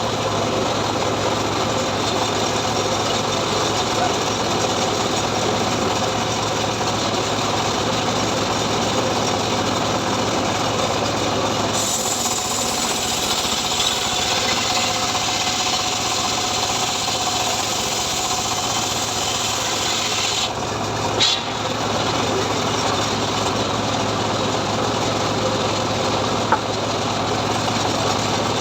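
Engine-driven homemade sawmill rig cutting through a sengon log: a steady, dense rasping over a constant engine hum. The tone shifts about twelve seconds in, and there is a brief dip near twenty-one seconds.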